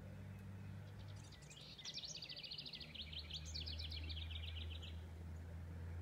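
A songbird singing a fast run of high, rapidly repeated notes, starting about a second and a half in and ending about five seconds in, over a steady low hum.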